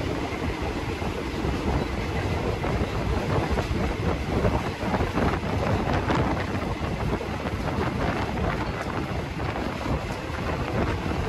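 Steady running noise of a passenger train heard from on board, with wind buffeting the microphone and a faint run of rattles and ticks from the carriage and the rails.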